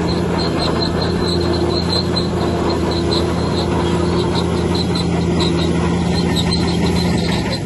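Bulldozer running steadily, its diesel engine humming low with a rhythmic high squeak from the steel tracks, about three squeaks a second.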